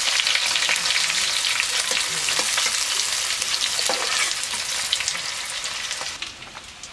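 Chopped onion and green chillies sizzling in hot oil in a metal kadai, stirred with a metal spatula that scrapes the pan now and then. The sizzle eases off a little near the end.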